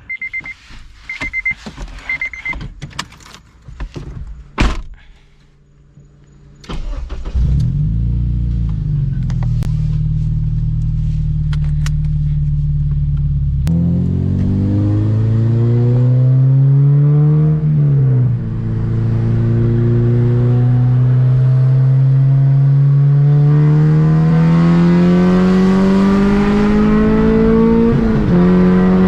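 Three short electronic beeps and a few clicks, then a 2007 Honda Civic Si's 2.0-litre four-cylinder engine pulls hard under full throttle, its pitch climbing through the revs, with two gear shifts, the first near the middle and the second about two-thirds through, before it climbs again.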